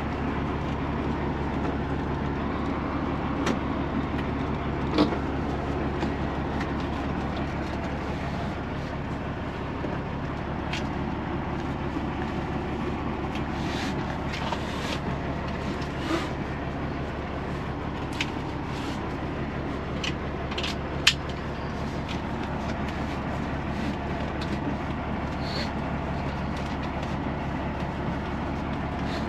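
A semi truck's diesel engine idling with a steady low hum. Scattered sharp clicks and knocks, loudest about five seconds in and again past twenty seconds, come from lock hardware being fitted to the cab door.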